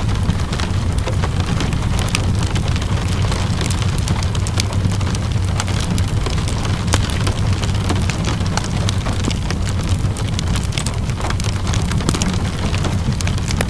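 Steady rainfall layered with a wood fire crackling in a fireplace: a constant low rumble underneath, with frequent sharp crackles and pops scattered throughout.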